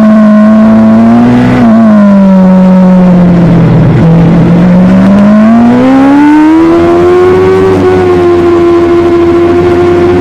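Superbike engine running hard. Its note dips about a second and a half in and sinks lowest around four seconds in as the bike slows, then climbs steadily as it accelerates away, with a brief jolt near eight seconds before holding a high, steady pitch.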